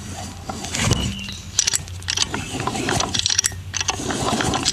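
Irregular metallic clicks and clatter from the kickstart mechanism of a Kawasaki KDX80 two-stroke engine being worked by hand with its side cover off, the kick lever returning under its spring. A steady low hum runs underneath.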